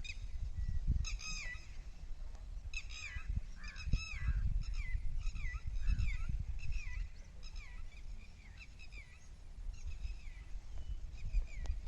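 Birds calling over and over, with short pitched calls in quick, irregular succession, many dropping in pitch at the end, over a low rumble.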